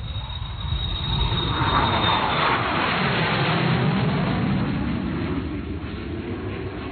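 An aircraft passing by. Its sound swells to a peak about two to four seconds in, drops in pitch as it goes past, then fades. A high whine stops at about the peak.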